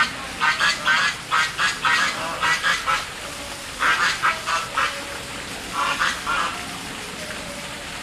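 Birds calling in quick runs of short, repeated calls, several a second, in a few bursts that stop about six and a half seconds in.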